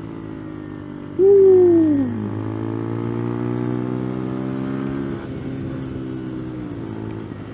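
The CFMoto Papio's small single-cylinder engine running on the move; its note holds steady, then drops about five seconds in as the throttle eases. About a second in, a voice lets out one loud call that falls in pitch.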